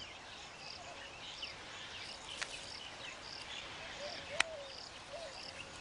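Faint outdoor ambience: small birds chirping over an evenly repeating high insect chirp, with a couple of sharp clicks.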